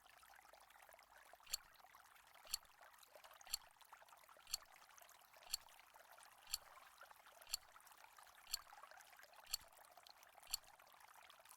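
Quiz countdown timer sound effect: ten short, sharp ticks, one a second, over a faint steady hiss.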